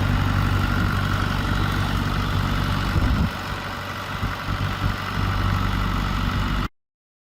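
A 1968 John Deere tractor's engine idling steadily. About three seconds in it turns quieter and uneven, then steadies again before the sound cuts off abruptly.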